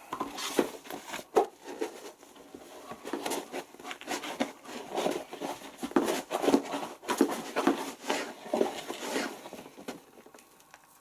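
Irregular rustling, rubbing and short knocks of detergent packaging and containers being handled. It stops about a second before the end.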